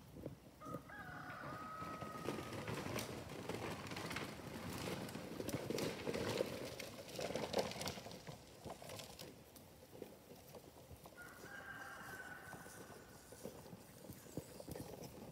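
Long, drawn-out bird calls, one about a second in and another near the end, with a stretch of rustling noise between them.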